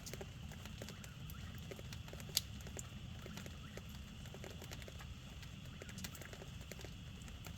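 Rain falling at night: a steady wash with many irregular drips and taps pattering, and one sharper tap about two and a half seconds in.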